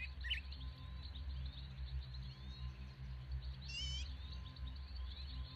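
Wild birds chirping in short rising and falling notes, with one longer wavering call about four seconds in, over a low steady hum.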